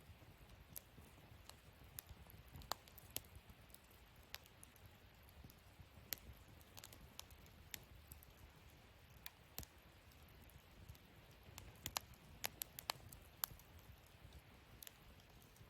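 Wood fire burning in a camping fire stand, crackling: soft, irregular pops and snaps over a faint low rumble, with a quick run of louder pops near the end.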